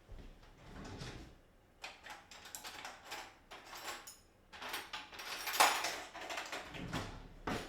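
Irregular knocks, clicks and rustling of objects being handled, with the sharpest knock about five and a half seconds in.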